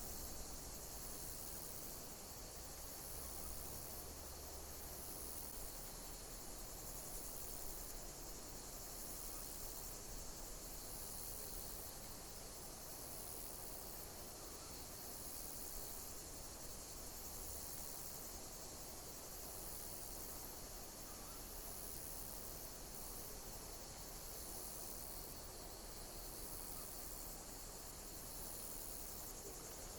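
Insects chirping: a steady high-pitched trill with a louder pulse repeating about every two seconds, over a soft hiss.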